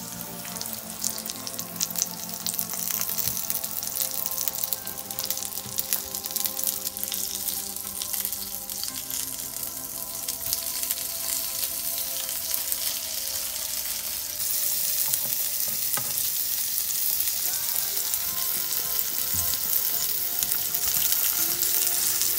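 Sausage rings with egg yolks frying in oil in a nonstick pan: a steady sizzle with fine crackling, which gets louder about two-thirds of the way through.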